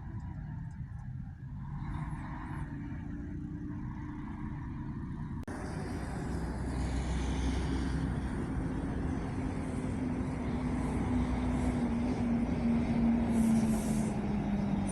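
Diesel engines of long-distance coaches running. From a few seconds in, a coach's engine note slowly drops in pitch as it gets louder, with a short hiss near the end.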